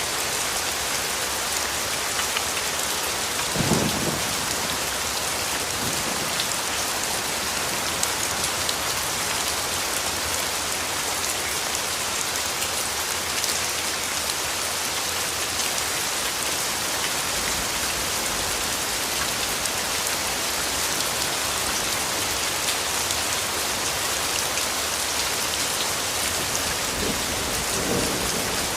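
Steady rain falling, an even hiss with scattered drop ticks. A brief low thump comes about four seconds in, and a fainter one near the end.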